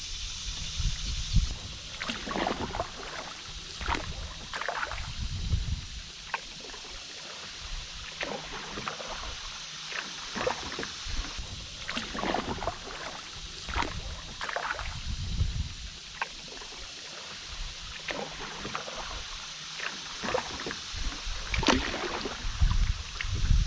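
Canoe paddle strokes: the blade dipping and pulling through river water every second or two, with short splashes and drips. Low rumbles come and go underneath.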